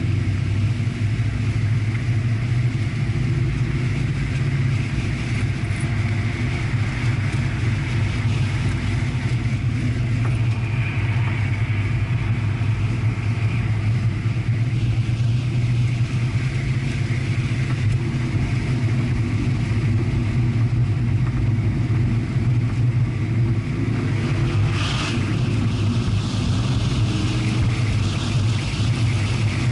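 Chevrolet Corvette's V8 engine and tyre and road noise heard from inside the cabin at track speed, a steady drone. A brief burst of hiss about 25 seconds in.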